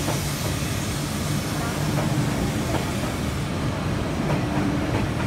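E6 series Shinkansen departing, its cars rolling past close by with a steady rushing rumble and a low hum, and a few faint wheel clicks over rail joints in the second half.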